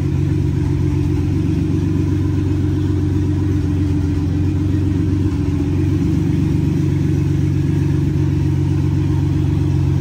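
Turbocharged Nissan 370Z's 3.7-litre V6 idling steadily, a loud even drone with no revving.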